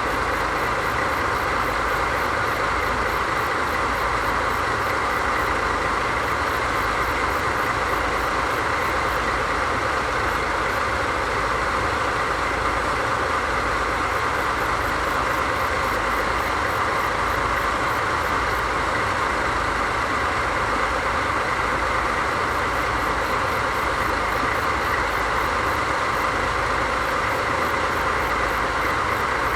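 DD51 diesel-hydraulic locomotive's twin V12 diesel engines idling steadily, a low pulsing rumble under a constant hiss and hum.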